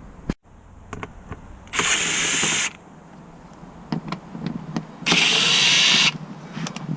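A cordless power tool run in two bursts of about a second each, with light clicks and knocks of tools on metal between them.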